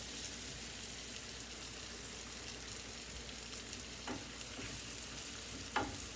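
Mushrooms sautéing in butter in a frying pan, a steady sizzle.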